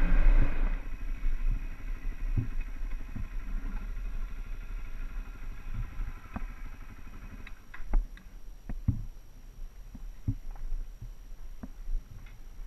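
A small dual-sport motorcycle's engine running, then stopping about a second in; after that a low steady rumble with scattered clicks and knocks.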